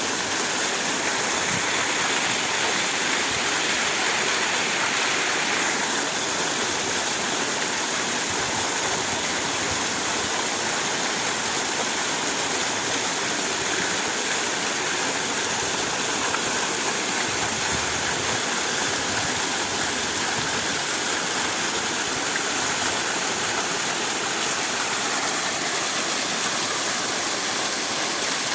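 Waterfall: a steady rush of falling water, swelling slightly a few seconds in.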